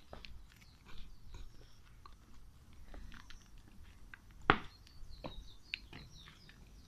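Light clicks and rustles of small objects being handled, with one sharper click about four and a half seconds in. Birds chirp faintly.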